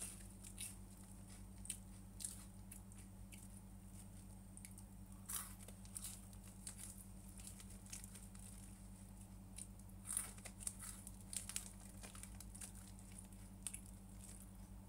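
Faint eating sounds: scattered crunches, chewing and crinkling of food packaging, with louder bursts about five and ten seconds in, over a steady low electrical hum.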